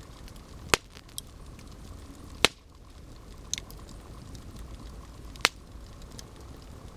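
Campfire burning, with five sharp pops of the wood, three of them loud, over a steady low rumble.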